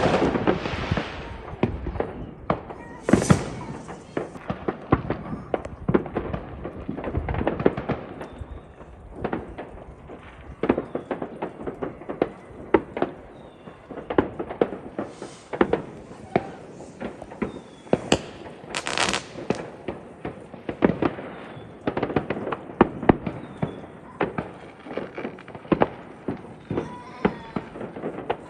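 New Year fireworks and firecrackers going off: a steady stream of sharp bangs and crackles, with louder bursts about three seconds in and again past the middle.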